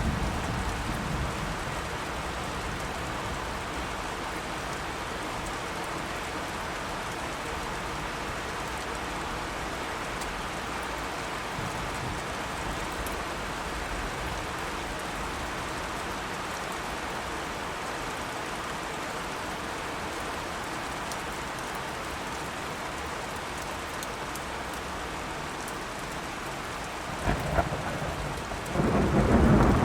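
Steady rain falling in a thunderstorm. A low thunder rumble dies away at the start, and another rolls in near the end.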